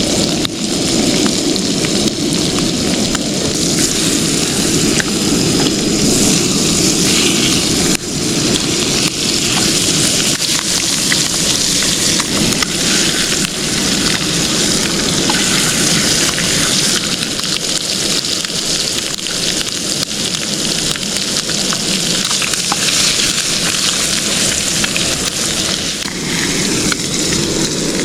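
Food frying in a pan over a camp fire: a loud, steady sizzle with fine crackling.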